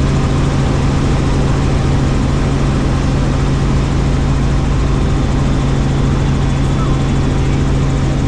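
Helicopter in flight: engine and rotor running at a steady, unchanging drone with a strong low hum.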